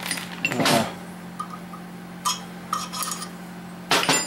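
Metal tools and engine parts clinking and knocking together in a few separate strikes, some with a short metallic ring, the sharpest near the end, as the oil pump is fitted to the engine.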